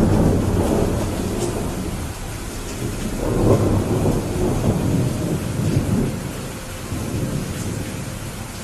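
Rain with rolling thunder: a long low rumble that swells again about three and a half and six seconds in, then fades toward the end, over a steady hiss of rain.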